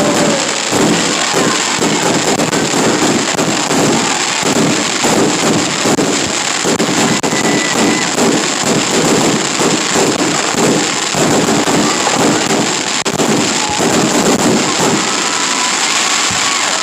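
Aerial fireworks going off in a dense, unbroken barrage of rapid bangs and crackling.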